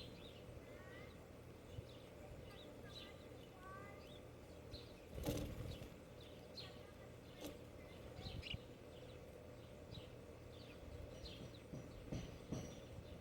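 Small birds at a feeder chirping, with short high chirps scattered throughout and a few brief rising notes in the first few seconds. A loud thump about five seconds in and a lighter click a couple of seconds later.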